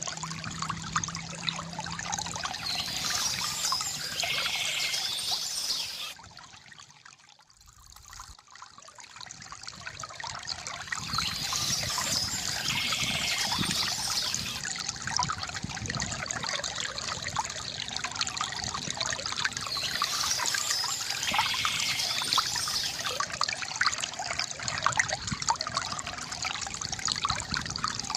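Small stream trickling and babbling over stones, a steady splashing rush of water. About six seconds in it fades down briefly, then swells back over the next few seconds.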